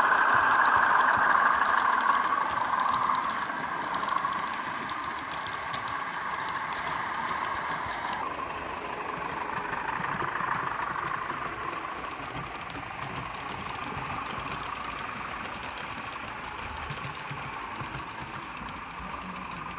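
Model diesel locomotive's sound-fitted engine running steadily, loudest at the start and slowly fading.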